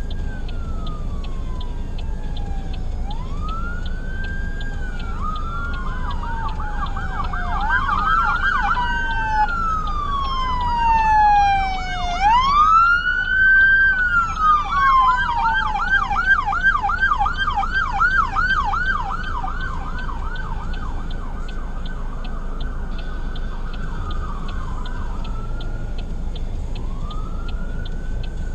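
Emergency vehicle sirens, with slow rising-and-falling wails. From about a third of the way in, a fast yelp of roughly three sweeps a second overlaps a second wail, loudest around halfway, before it settles back to a single wail near the end. A steady low rumble of traffic and engines runs underneath.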